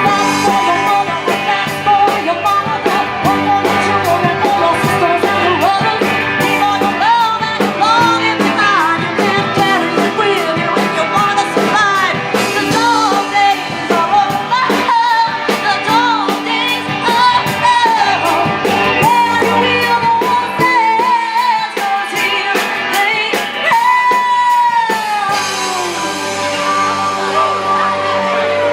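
Live band music: a singer's voice over guitar and a steady drum beat. Near the end a long sung note slides down and the beat drops away.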